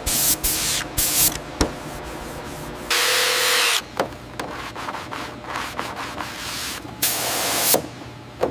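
Sanding on a jet's metal skin in short, uneven strokes, with a longer stroke about three seconds in and another near the end.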